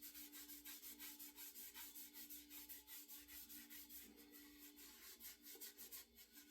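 Faint, quick back-and-forth rubbing strokes on a wooden ash axe handle, about four to five a second, going on steadily.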